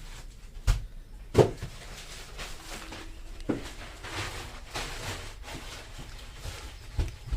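A few scattered knocks and handling noises: the loudest about a second and a half in, another near the middle, over a low rustling background.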